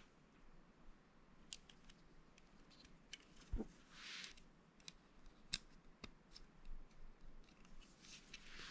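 Plastic Lego bricks being handled and pressed together: scattered sharp clicks, a dull knock about three and a half seconds in, and two brief rustles.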